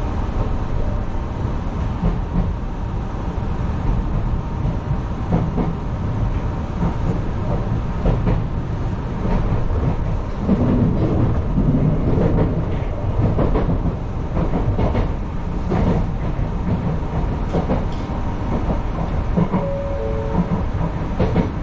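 Enshu Railway electric train running along elevated track, heard from inside the cab: a steady low rumble with wheels clicking over rail joints at irregular intervals.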